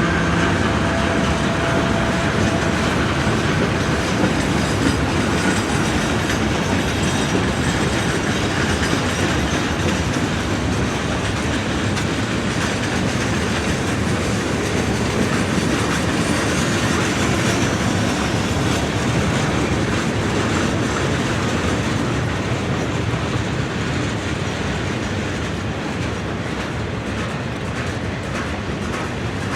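Freight train rolling past, its cars' wheels clattering steadily over the rail joints, easing slightly near the end.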